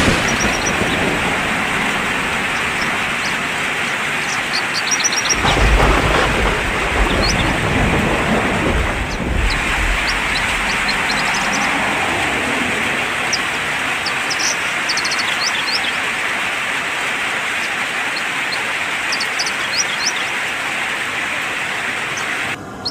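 Steady rain, with a low rumble of thunder swelling about five seconds in and fading over a few seconds. Short bird chirps come through the rain now and then.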